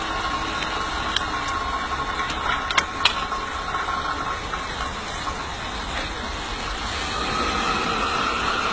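Steady hiss and whine of a coal-fired miniature steam locomotive being fired, with an electric draught fan whose whine fades out about four and a half seconds in as the fan is taken off. A few sharp metal clinks come near the start as more coal is shovelled in.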